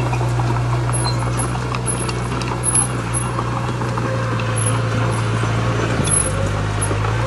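Diesel engine of heavy earthmoving equipment running steadily, with many short scattered knocks and rattles over it.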